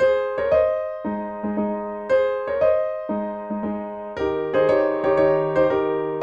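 Piano playing a slow hymn tune: chords struck one after another, each ringing and fading before the next.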